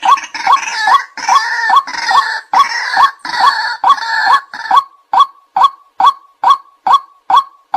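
White-breasted waterhen calling: a rapid series of 'kwak' notes, a little more than two a second. For about the first five seconds harsh, rasping sounds lie over the notes; after that the notes repeat clean and evenly spaced.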